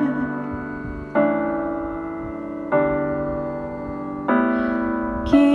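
Piano chords from an instrumental backing track, three struck about a second and a half apart, each left to ring and fade.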